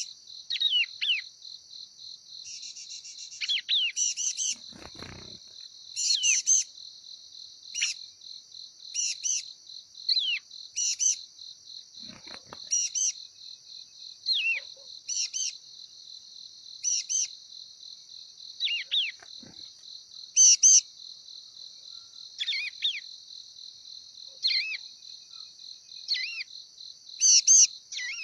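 A prinia (prenjak) giving short, sharp, chirping calls, repeated every one to two seconds, over a steady high insect trill from crickets.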